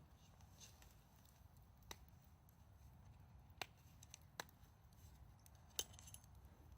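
Campfire wood crackling faintly: four scattered sharp pops over a quiet low background.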